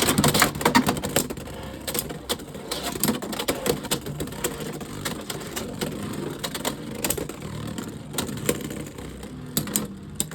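Two Beyblade X spinning tops, Unicorn Sting and Knight Shield, whirring and rattling in a plastic stadium, with many sharp clashes as they strike each other and the walls. A cluster of harder hits comes near the end.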